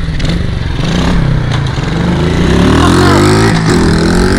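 Small mini bike engines running, with one revving up in a rising climb about halfway through, dropping briefly and climbing again near the end.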